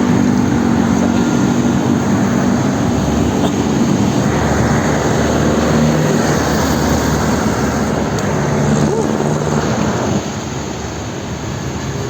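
Steady road noise while cycling through city traffic: wind rushing on the microphone, with vehicle engines humming alongside. It eases a little about ten seconds in.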